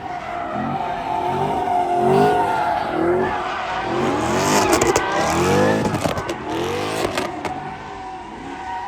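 Car tires squealing in a long steady screech, with engine revs rising and falling over it, as at a burnout or donuts.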